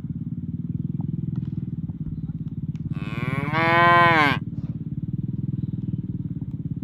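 A cow lowing once, a single loud moo about three seconds in that rises and then falls in pitch over about a second and a half, over a steady low pulsing drone.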